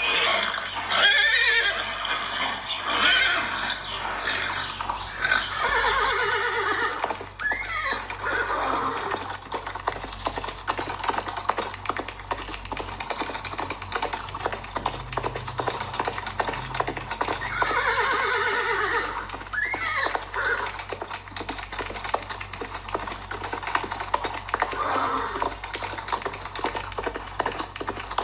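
Horse whinnying several times, long quavering calls that fall in pitch, with pauses between them. A run of short clicks and knocks goes on underneath.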